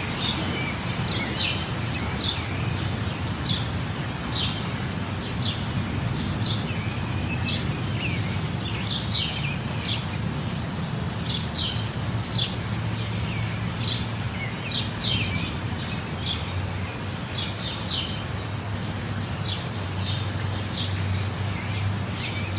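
Rainforest ambience: birds giving short, repeated chirps over a steady background hiss.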